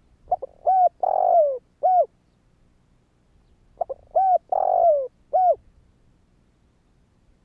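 Spotted dove cooing: two songs about three and a half seconds apart, each a couple of short coos, a longer coo that falls in pitch, and a short closing coo.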